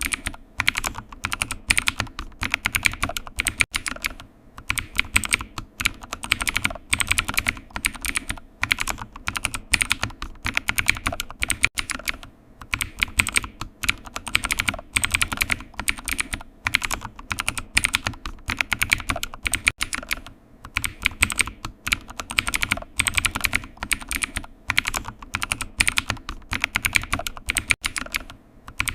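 Computer keyboard being typed on continuously, rapid key clicks in runs of a few seconds with brief pauses between them.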